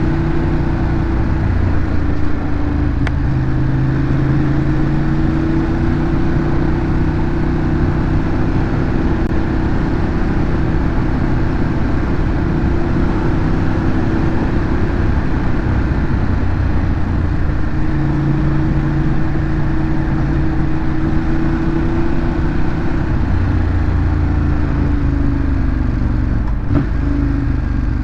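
Ducati Monster 821's L-twin engine on its stock exhaust, running steadily under way, its pitch easing off about halfway through and again near the end, over a steady rush of road noise.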